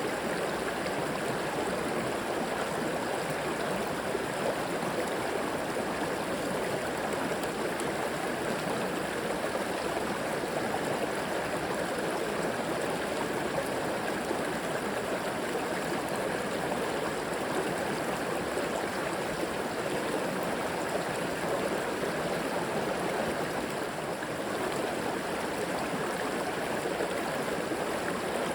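A river flowing steadily over rocks, a continuous rushing and babbling of water.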